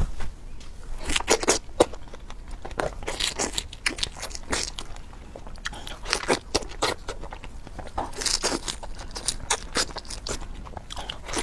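Close-miked biting and chewing of fresh fruit, strawberries among it: irregular wet crunches and mouth smacks coming in clusters.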